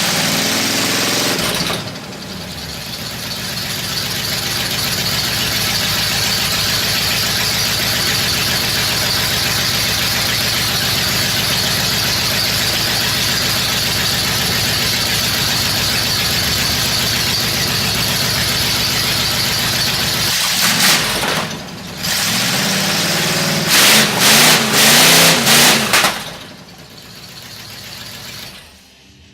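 1977 Oldsmobile 350 V8 running loud and steady, dipping briefly twice, then revved in several quick bursts near the end before the sound drops away sharply.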